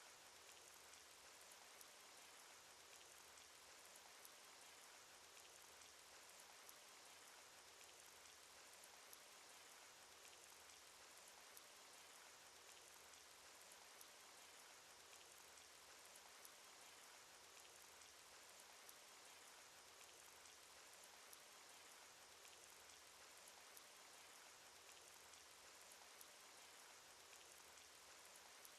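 Faint, steady cartoon rain sound effect: an even hiss of falling rain, with a slightly louder drop tick about every couple of seconds.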